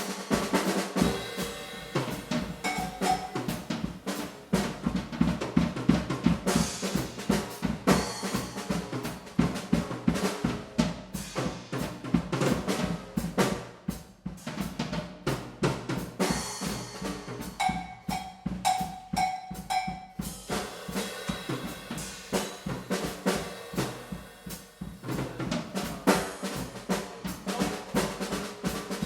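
Jazz drum kit played solo in a fast, dense pattern of snare, bass drum, rimshots and rolls. A run of four short pitched hits comes about two-thirds of the way through.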